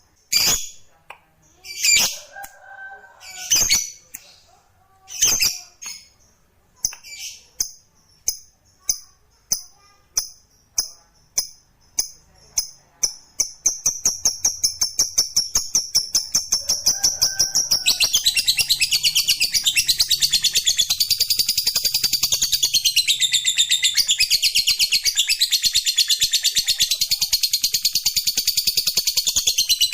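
Lovebird giving its 'ngekek' call: separate sharp chirps that come faster and faster until they run together into a long, unbroken, rapid chattering trill.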